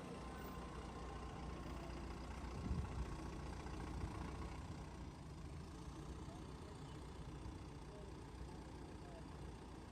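Faint low vehicle engine idling steadily, with a brief knock about three seconds in and another about a second later.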